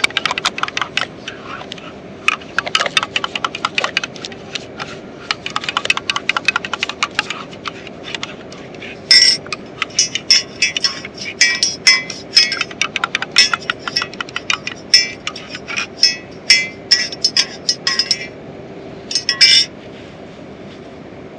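Rapid metallic clinks and scrapes of a metal utensil against metal cookware, coming in quick runs that grow louder and denser about nine seconds in and stop a couple of seconds before the end.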